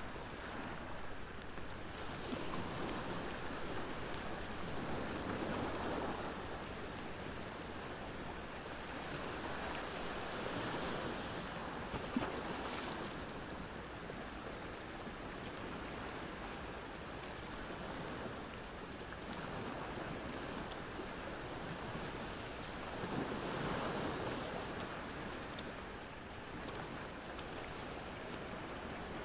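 Ocean waves washing ashore, swelling every few seconds, with a wood fire crackling over them and one sharper pop about twelve seconds in.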